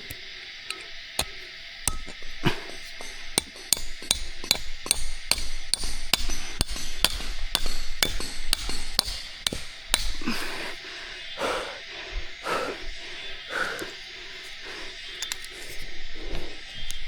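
Rapid repeated sharp blows of a hand tool striking, about three a second for several seconds, then slowing to scattered strikes.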